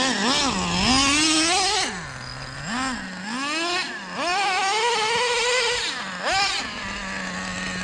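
Traxxas Slayer's 3.3 nitro engine revving in several bursts as the RC truck is driven, dropping back towards idle between them and holding a steady idle near the end.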